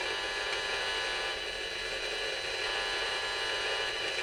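Handheld RF meter's speaker giving off a steady static hiss, with several faint steady tones running through it.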